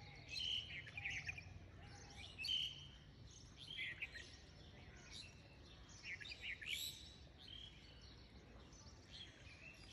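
Small birds chirping faintly: short chirps and brief rising and falling whistles come in clusters throughout, over a faint low hum.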